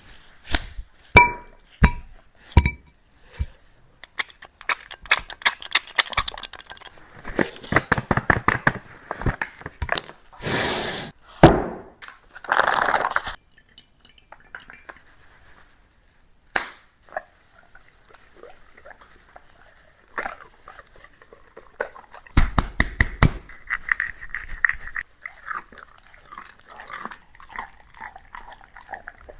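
A dog eating from a dish: a few ringing clinks of the dish, then long runs of quick clicking and crunching as it chews.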